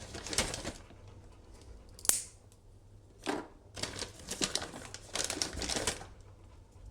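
A treat packet being crinkled and torn open by hand, in several crackling bursts with a sharp snap about two seconds in.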